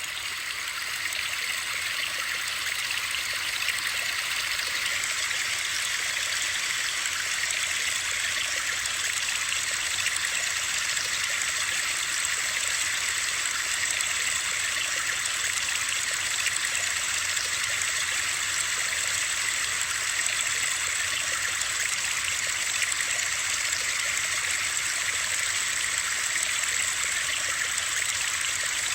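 Steady hiss of rushing water, used as a sleep sound, cutting in suddenly out of silence at the very start and then holding even.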